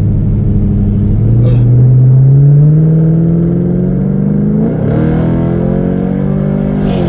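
Chevrolet Camaro SS 6.2-litre V8 with its muffler deleted, accelerating hard through the gears: the engine note climbs steadily for about five seconds, drops at a gear change, climbs again and drops once more near the end. The exhaust note is deep.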